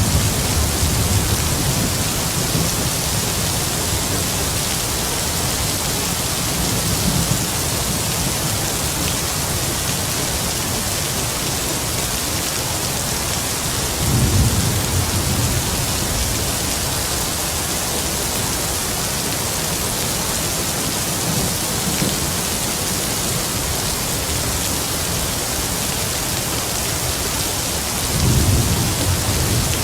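Heavy rain falling steadily, with low rolls of distant thunder three times: at the start, about halfway, and near the end.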